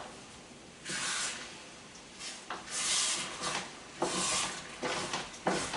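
Spoon stirring orzo pasta in broth in a pan, scraping the bottom in a few separate strokes about a second or so apart, to keep the pasta from sticking.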